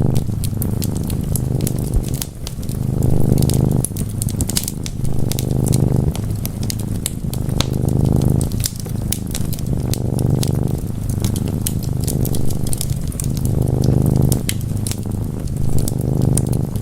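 Domestic cat purring, a low steady purr that swells and fades in cycles of about two seconds, one for each breath in and out. Wood fire crackling over it with frequent sharp pops.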